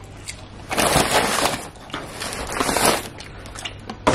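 Crunching bites and chewing of crispy barbecue fried chicken close to the microphone, in two loud crunchy stretches: one about a second in, another near three seconds.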